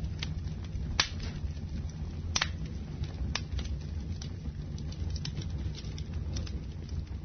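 Wood fire burning in a fireplace: a steady low rumble of flames with irregular sharp crackles and pops, the loudest about a second in and about two and a half seconds in.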